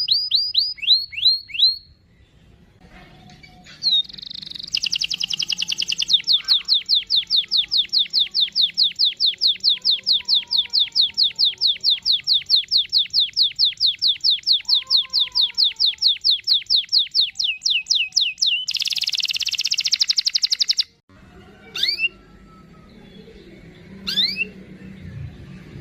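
Domestic canary singing: a few quick chirps, then a long rolling trill of rapidly repeated notes lasting about fourteen seconds, ending in a dense buzzy roll that cuts off suddenly. A couple of faint single chirps follow near the end.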